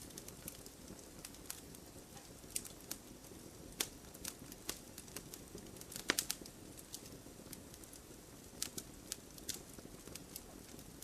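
Wood fire crackling: sharp, irregular pops and snaps of burning logs, with a cluster of louder cracks about six seconds in, over a low steady background.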